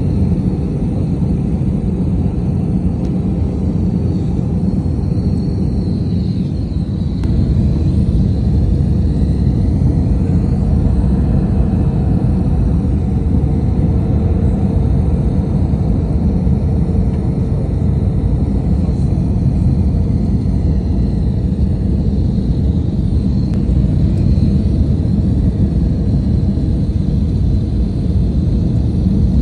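Steady rumble of an airliner's engines and rushing air heard inside the passenger cabin, with a faint high whine above it. The level dips briefly and then rises a little about seven seconds in.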